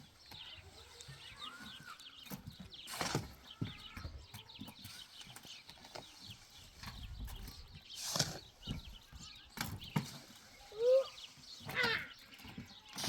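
Farmyard livestock sounds: a few short bleats near the end, among scattered knocks and many faint high chirps.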